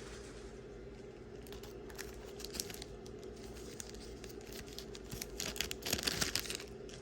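Crinkling and rustling with light clicks as small pieces of jewelry are handled, growing denser and loudest near the end, over a faint steady hum.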